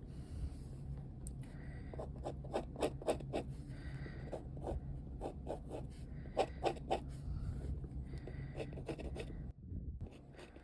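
A series of short scratchy strokes and light taps of a tool working on a hard surface, some in quick runs, over a steady low hum. They stop about a second before the end.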